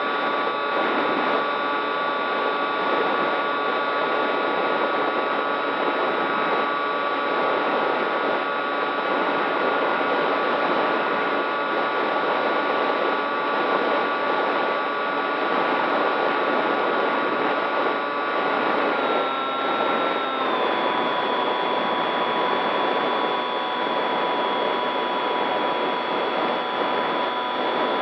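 Electric motor and propeller of a radio-control model aircraft running steadily with a high whine over rushing noise. The whine drops in pitch in two steps about two-thirds of the way through, as the throttle is eased back.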